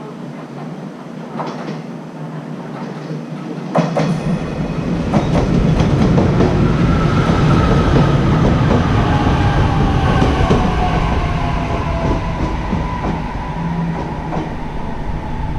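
A train running through the station: a sharp knock about four seconds in, then a loud low rumble with wheels clacking over rail joints and a thin tone that slides slowly lower.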